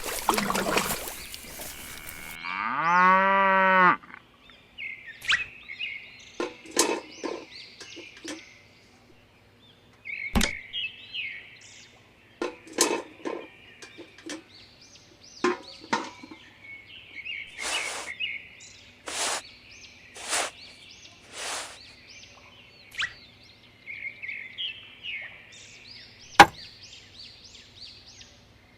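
A cow moos once, about three seconds in, its pitch rising then falling. Scattered small clicks and taps follow, with short high chirps like bird calls, and four brief hissing strokes around the middle.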